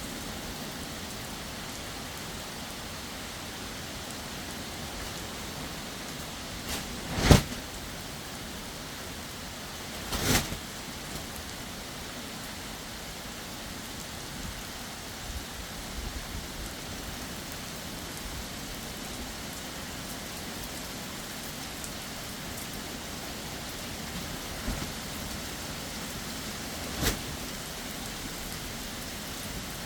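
Heavy rain falling steadily. Three sharp knocks cut through it: a loud one about seven seconds in, another about ten seconds in, and a fainter one near the end.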